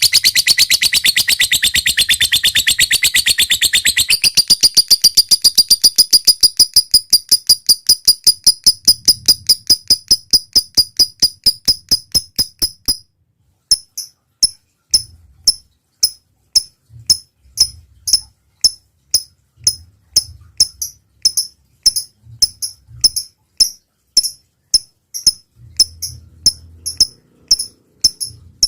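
A lovebird calling a long, fast run of sharp, high chirps, at first dense and rapid, then settling to about five notes a second. About halfway through it breaks off briefly and goes on as a slower, more irregular series of ticking notes, the 'ngekek' chatter and 'ngetik' ticking that are played to get other lovebirds singing.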